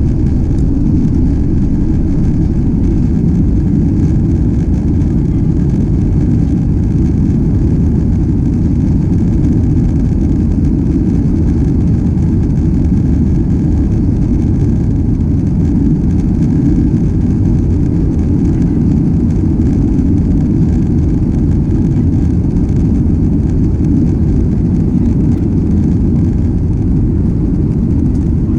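Steady low rumble of a Boeing 737 airliner's engines and airflow, heard from inside the passenger cabin.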